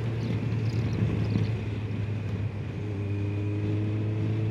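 Motorcycle engine running at a steady low speed: a steady low hum with no revving, over wind and road noise.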